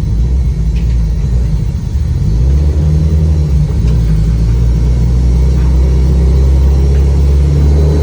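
Built Subaru Impreza engine heard from inside the gutted cabin, running at low steady revs with a deep drone. About two and a half seconds in it gets louder as the car pulls harder, then holds there.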